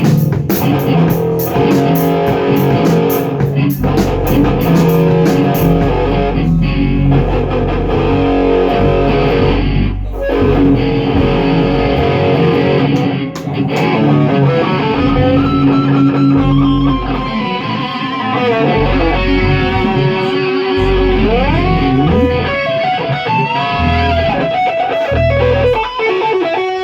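Rock band rehearsing: electric guitar and bass guitar playing, with drum cymbals for the first few seconds. Later a guitar line with pitch bends and slides stands out.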